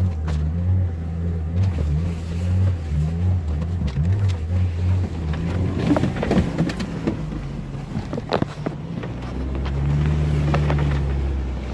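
Car engine heard from inside the cabin, labouring on a snowy rutted track with its revs rising and falling unevenly. About six seconds in there is a run of knocks and clunks as the car rides over the ruts, then the engine settles to a steadier note.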